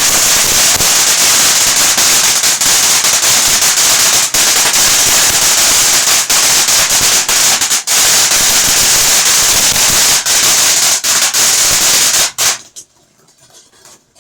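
Fireworks crackling in a loud, dense, continuous rapid crackle that stops abruptly about twelve seconds in.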